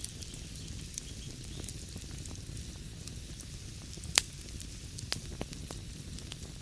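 Wood fire burning in a fireplace: irregular crackling over a low, steady rumble of flames, with one sharp, loud pop about four seconds in and a few smaller pops soon after.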